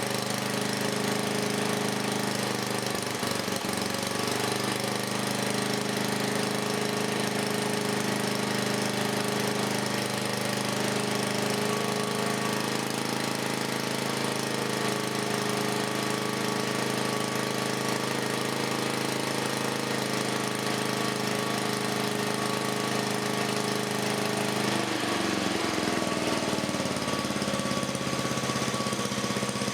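Rebuilt 1984 10 HP Briggs and Stratton vertical-shaft single-cylinder engine, fresh rings and reseated valves, running steadily under its own power. About 25 seconds in its pitch drops as it slows to a lower speed and keeps running.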